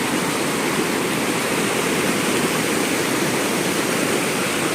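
A large, fast mountain river rushing over stones in a steady, loud roar of water, with no break or change.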